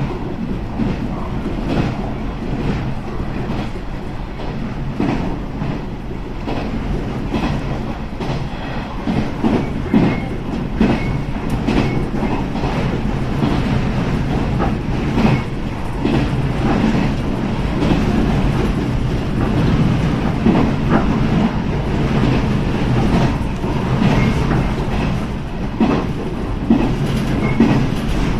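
A local train running along the track: a steady rumble from the wheels and running gear, with scattered clicks as the wheels pass over the rails.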